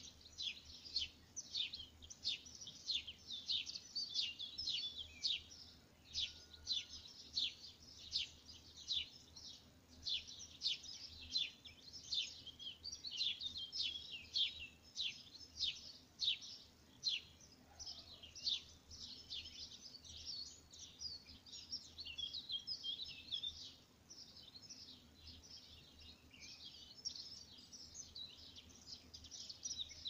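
Small birds chirping steadily: a dense run of short, high chirps, several a second, over a faint low background hum.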